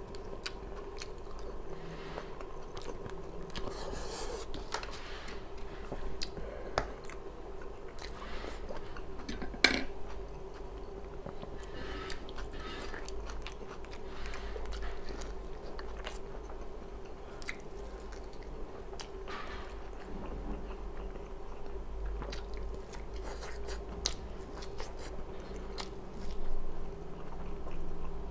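Close-miked chewing and biting of food, with many small wet mouth clicks and crunches, over a steady low hum. A sharper click about ten seconds in, and a louder stretch of chewing near the end.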